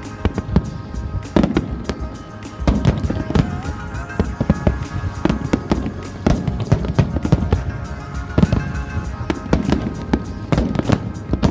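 Fireworks display bursting in quick succession, a dense run of bangs and crackles, with music playing underneath.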